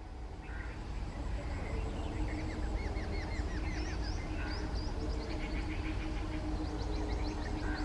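Birds calling in quick runs of short, high chirping notes, with a run about two seconds in and another near the end, over a steady low rumble and a faint steady hum.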